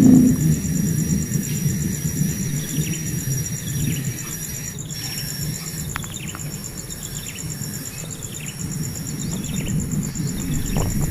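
Outdoor ambience of short, high bird chirps scattered throughout, over a steady high, pulsing insect trill and a low background rumble.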